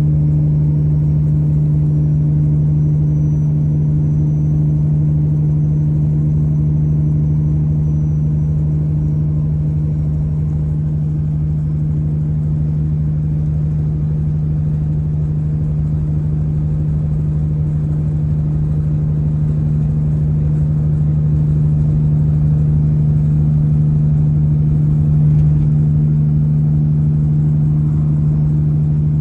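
Semi-truck engine holding a steady low drone at a constant speed, with road noise underneath.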